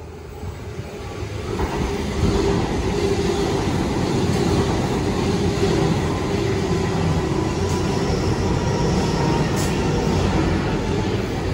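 Sydney Trains double-deck electric train running close alongside the platform. Its noise builds over the first two seconds as it comes near, then holds steady, with a steady hum running through it.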